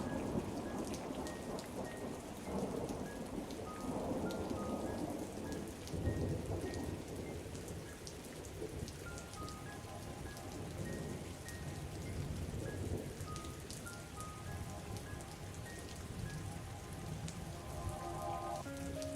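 Steady rain pattering on a surface, with low rolling thunder rumbling underneath. A soft, slow melody of single notes plays quietly over the rain.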